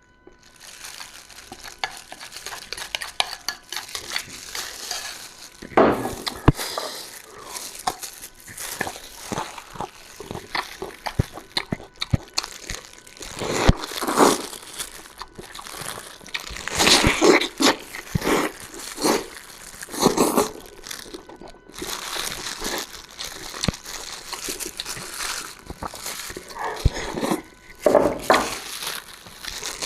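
Close-miked eating sounds: wet sucking and chewing of soft, tender-stewed food, with crinkling noises and sharp clicks coming in irregular clusters.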